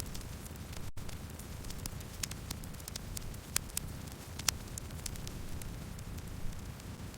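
Campfire burning, with irregular sharp crackles and pops over a low steady rumble of the flames. The sound cuts out for a split second about a second in.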